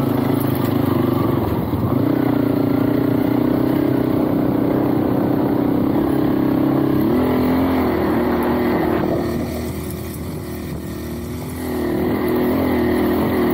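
Motorbike engine running steadily while riding, its note shifting in pitch about halfway through. It drops quieter for a couple of seconds about two-thirds of the way in, then picks up again.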